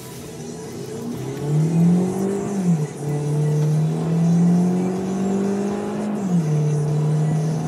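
Peugeot RCZ's turbocharged 1.6 THP four-cylinder engine accelerating hard, its note climbing in pitch. The pitch drops sharply at two upshifts, about three and six seconds in, and climbs again after each.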